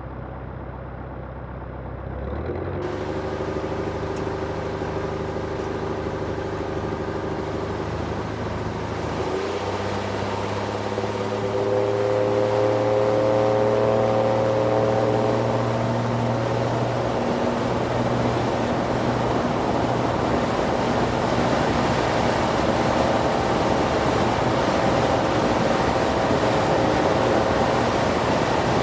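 Lycoming IO-375 engine and propeller of a Zenith STOL CH 750 Super Duty, heard from the cockpit. The engine note rises as the throttle is opened, once about two seconds in and again around ten seconds in. It then holds steady and louder under a rushing noise.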